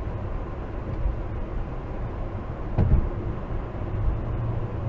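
Car driving: a steady low road and engine rumble, with one short thump about three seconds in.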